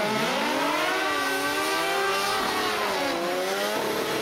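Drag racing motorcycle's engine held at high revs during a burnout, the rear tyre spinning. The engine pitch climbs, sags about three seconds in, then rises again.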